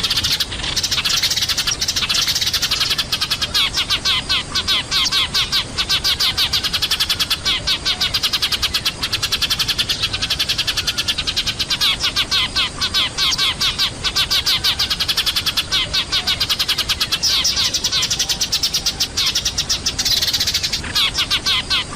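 A flock of Eurasian tree sparrows chirping noisily without pause, a dense rapid chatter of many overlapping calls. It is a lure-call recording played to draw sparrows down.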